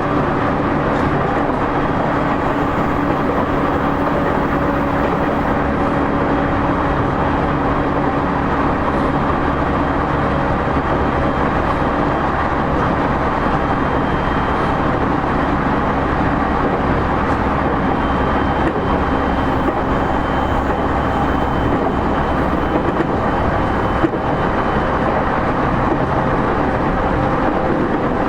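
Running noise inside a motor car of a JR East E231-0 series commuter train at speed between stations: a steady rumble of wheels on rail with a steady hum from the traction motors beneath the floor. There is one sharp knock about 24 seconds in.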